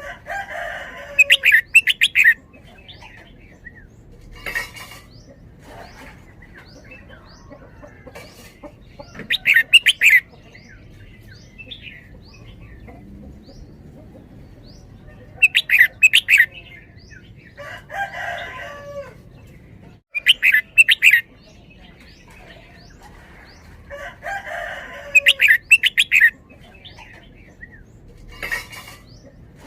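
Red-whiskered bulbul singing short, loud phrases of rapid notes, about five phrases spaced several seconds apart. Fainter quick chirps from other birds are heard between the phrases.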